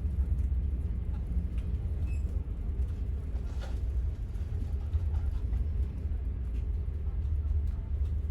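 Steady low rumble of the Queen Beetle high-speed ferry's engines and hull heard inside the passenger cabin while under way in rough seas, with a few faint light ticks over it.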